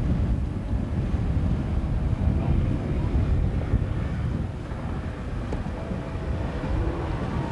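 A boat engine runs steadily, with wind rumbling on the microphone and faint wavering engine tones above it.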